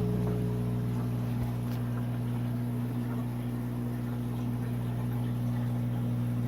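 Aquarium pumps and filter running with a steady electrical hum.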